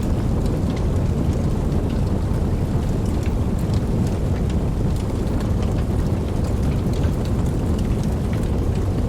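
Steady rain: an even, deep wash of falling water with scattered sharp drop ticks on top.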